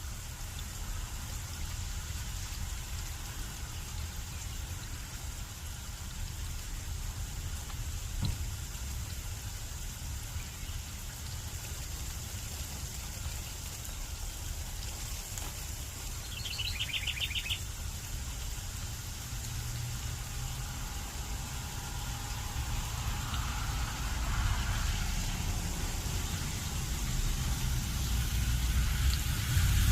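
Steady light rain hissing, with a low wind rumble underneath. A bird gives one short, rapid trill about halfway through. Over the last ten seconds a low engine rumble builds as a vehicle draws near.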